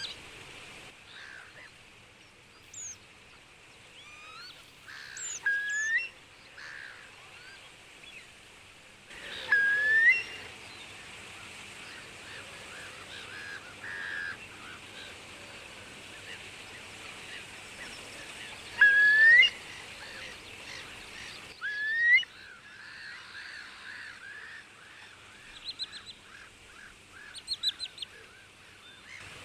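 Wild birds calling over a steady outdoor hiss: a handful of separate rising whistled calls spread through, and a run of short quick notes near the end.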